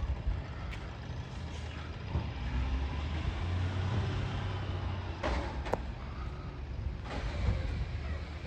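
Heavy truck engine running with a steady low rumble, with a couple of sharp clanks about five seconds in.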